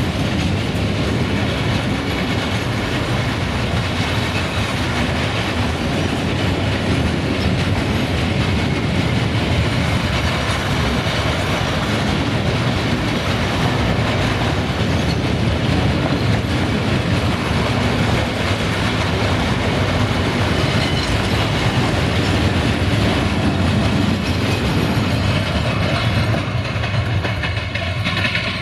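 Cement hopper wagons of a freight train rolling past close by: a steady loud rumble and clatter of steel wheels on the rails, easing off near the end as the last wagon goes by.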